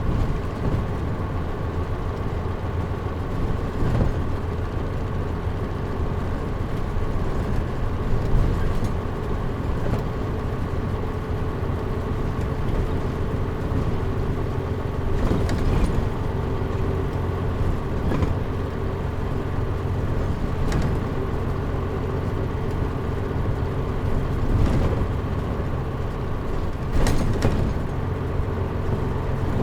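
Cabin sound of a Mitsubishi Fuso Aero Star KL-MP37JM diesel city bus, its engine running steadily with the air conditioning switched off. A few brief knocks and rattles come through at intervals.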